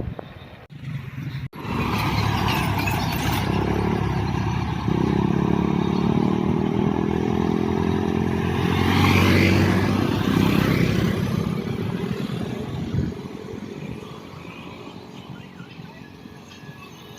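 A motor vehicle's engine and tyres passing close on the road, building to its loudest about nine seconds in and then fading away.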